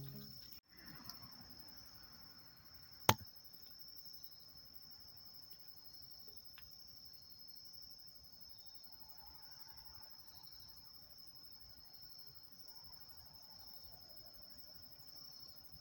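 Faint, steady insect chirping, typical of crickets, as one high continuous trill. A single sharp snap about three seconds in.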